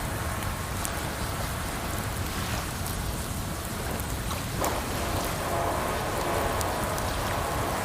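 Wood fire crackling with a few sharp pops over a steady rush of running water. A little past halfway, a brighter splashing water sound comes in.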